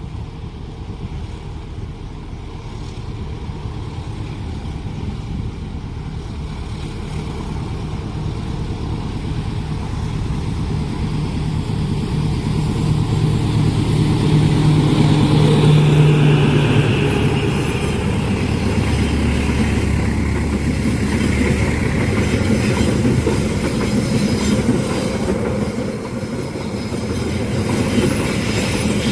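A diesel-hauled train passing at speed: the locomotive's engine hum grows louder to a peak about halfway through. The carriages then roll past on the rails, with a higher wheel sound that falls in pitch.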